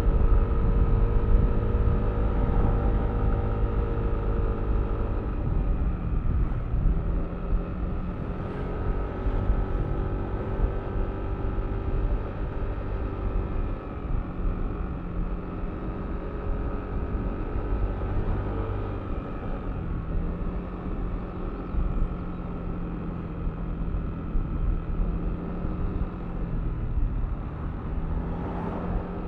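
Yamaha Aerox V3 scooter's 155 cc single-cylinder engine running under way, with road and wind noise. It is louder for the first few seconds, then eases to a slightly quieter, steady cruise, with the engine note shifting in pitch a few times.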